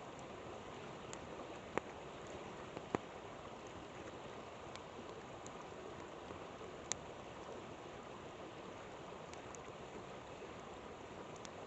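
A river flowing steadily, with scattered sharp pops and crackles from a wood campfire; the three loudest pops come about two, three and seven seconds in.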